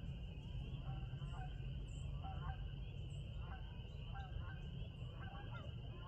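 Birds calling repeatedly, short calls about once or twice a second, over a steady high-pitched drone and a low rumble.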